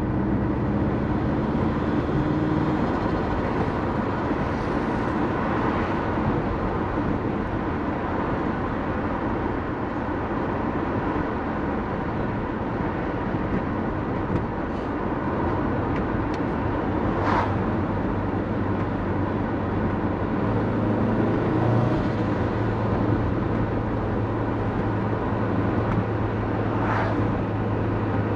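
Turbocharged Subaru Forester's EJ20 flat-four running steadily at light throttle while cruising, with continuous road noise. A steady low hum strengthens about halfway through, and two brief sharp sounds stand out, one past the middle and one near the end.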